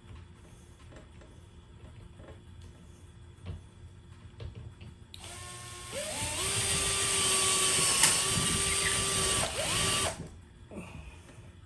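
Power drill starting just past the halfway point: it spins up in pitch, runs steadily for about four seconds, dips and picks up again once, then stops, with a few light knocks before it starts.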